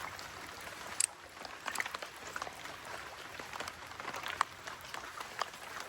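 Water pattering and splashing outdoors: a steady hiss strewn with many small, irregular drop-like ticks, with a sharper splash about a second in.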